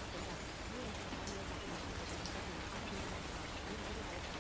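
Steady rain falling on a surface, with scattered drop ticks. Beneath it, a faint voice murmurs: the buried subliminal affirmations.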